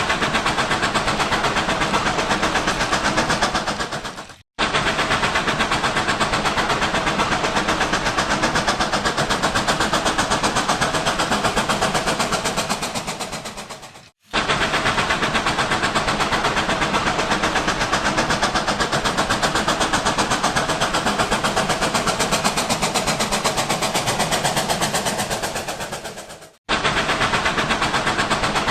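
Model train running on its track: a steady electric motor whir with rapid clicking of wheels on rail. It comes in stretches that each fade down and cut off, three times, before starting again at full level.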